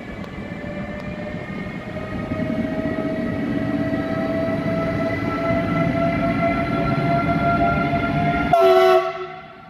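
Siemens Vectron electric locomotive hauling an express train, its traction motors whining in a steady tone that rises slowly in pitch as it gathers speed over the rumble of the train. Near the end comes a short, loud horn blast, the Rp1 warning signal.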